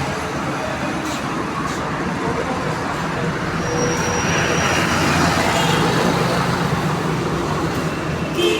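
Steady motor-vehicle and road-traffic noise, swelling a little in the middle.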